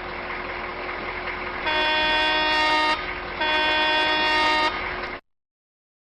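Semi-truck engine running, with two blasts of its air horn, each a little over a second long, about two and three and a half seconds in. The sound cuts off about five seconds in.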